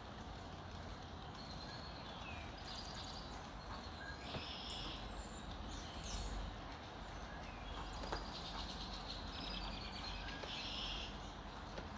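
Several wild birds singing and chirping together in an early-morning chorus, with overlapping short trills and high chirps. A steady low background rumble lies beneath, with a few sharp clicks.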